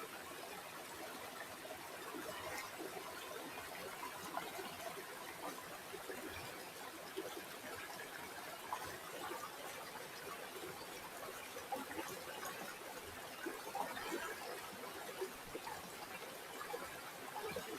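River water flowing: a steady trickling and babbling with many small irregular splashes.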